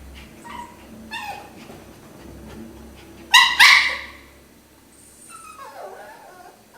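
Jack Russell terrier yipping and whimpering softly, then giving two loud sharp barks in quick succession about three seconds in, followed by softer wavering whines.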